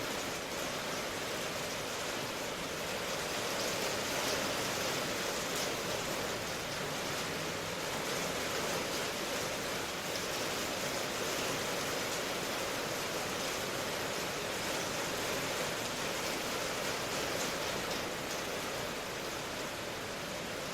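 Steady rain hiss, an even wash of falling-water noise with no distinct drops, thunder or other events.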